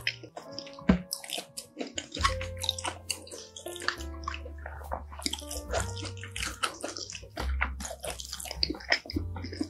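Close-miked chewing of kimchi fried rice: a dense run of short wet smacks and clicks from the mouth. Background music plays underneath.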